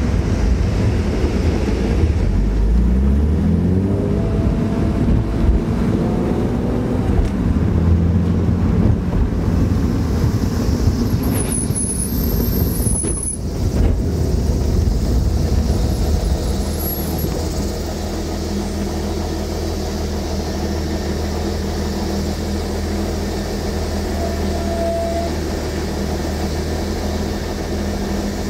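BMW E36 M3's straight-six engine heard from inside the cabin while driving, with road noise. The engine note rises a few times in the first ten seconds as the car accelerates, then settles into a steady drone from about sixteen seconds in.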